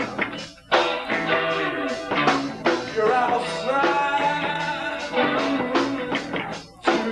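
Live rock band playing: guitar, bass guitar and drums with some singing. The band stops short twice, about half a second in and near the end, then comes back in.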